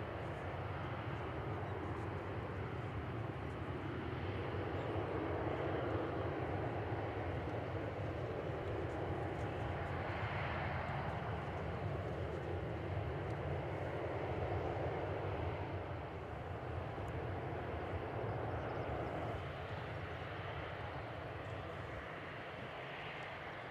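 Boeing 737-800's CFM56-7B jet engines running, a steady rushing roar with a low hum underneath that swells through the middle and eases off near the end.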